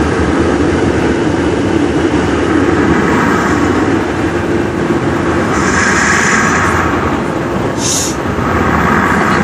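Automatic car wash dryer blowers: a loud, steady rush of air with a low hum, swelling for a moment about six seconds in.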